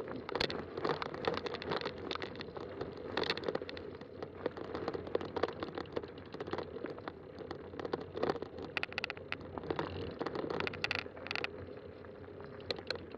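Fat-tire mountain bike riding along a dirt trail: tyres rolling over the ground with a steady stream of small clicks and rattles.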